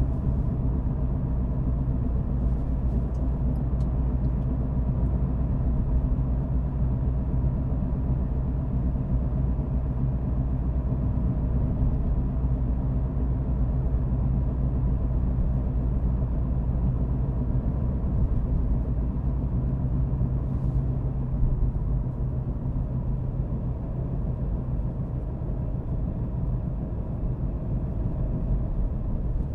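Car driving at a steady speed: a continuous low rumble of engine and road noise with a steady hum, easing a little about three quarters of the way through.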